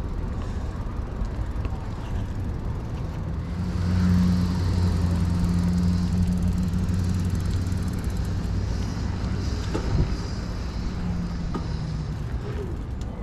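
Street traffic: a motor vehicle's engine runs steadily close by for several seconds from about four seconds in, over a general road rumble. There is one sharp knock near the ten-second mark.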